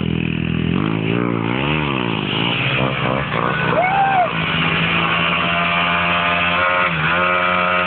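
Motorcycle engine revving, its pitch rising and falling several times, with a higher rise near the end.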